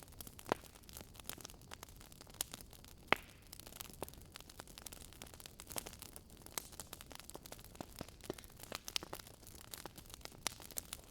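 Wood fire crackling in a fireplace: irregular sharp pops and snaps over a low, steady hiss. The loudest pops come about half a second and three seconds in.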